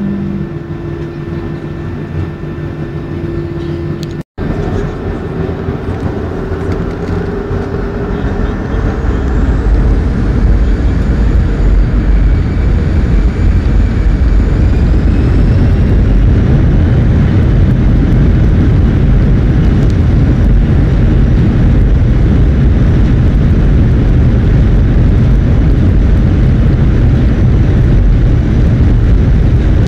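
Jet airliner engines heard from inside the cabin, spooling up to takeoff thrust. Rising whines climb over several seconds and the noise swells about ten seconds in to a loud, steady rumble, with a brief break in the sound about four seconds in.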